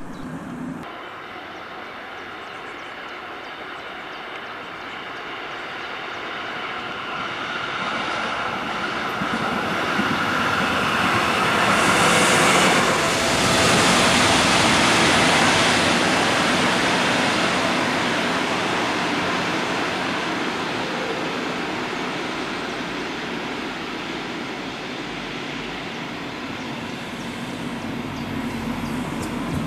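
Diesel regional train approaching and passing underneath: a steady engine-and-wheel noise that builds, is loudest a little under halfway through, then slowly fades as the train runs on.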